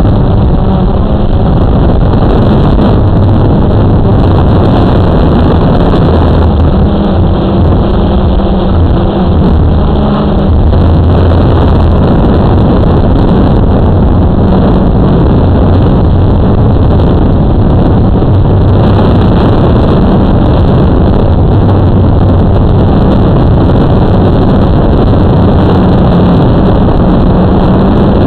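Strong wind rumbling on the microphone over the hum of a Blade 350 QX2 quadcopter's electric motors and propellers. The hum shifts in pitch around a third of the way in.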